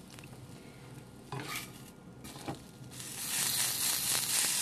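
Monkey head mushroom steak frying in oil in a nonstick pan: a low sizzle broken by a few short spatula knocks and scrapes, swelling to a louder, steady sizzle about three seconds in as a slotted spatula presses the mushroom down.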